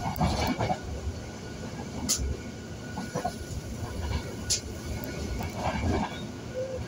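Passenger train running, heard from inside the carriage: a steady low rumble, with two sharp clicks about two and four and a half seconds in.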